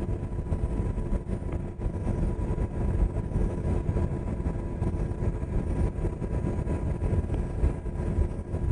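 UH-60 Black Hawk helicopter in flight, heard from inside the cabin: a steady rotor and turbine rumble with faint steady tones above it.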